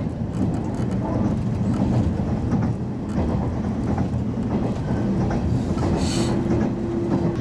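Running noise inside the car of a Toyama Chiho Railway 10030 series electric train (ex-Keihan 3000 series): a steady low rumble of wheels on rail. A short hiss comes about six seconds in, and a steady hum sets in near the end.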